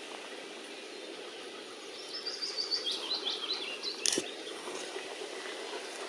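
Steady outdoor background hiss. About two seconds in, a small songbird sings a quick run of short, high chirps, about four a second, for about two seconds, followed by a brief click.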